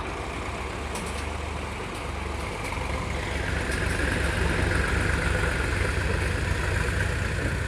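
Tractor diesel engine running with a steady low rumble, growing a little louder about three seconds in.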